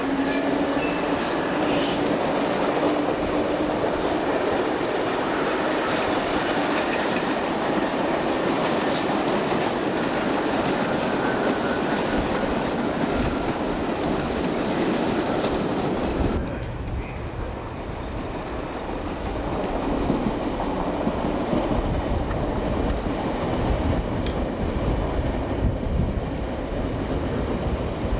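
Train running on the rails, wheels clattering over the track joints with a steady rushing noise. About two-thirds of the way through the sound changes abruptly to a deeper, heavier rumble.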